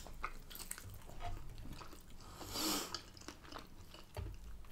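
Faint chewing and wet mouth sounds of people eating chips, with many small clicks and a short hiss nearly three seconds in.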